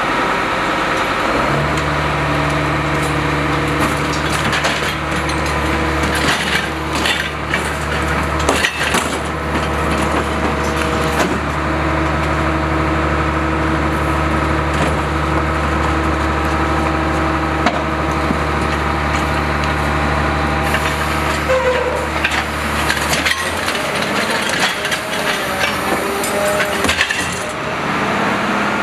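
Garbage truck engine held at raised revs to drive its hydraulic compactor, a steady low drone, with knocks and clatter of refuse and bins throughout. The drone drops away about 23 seconds in.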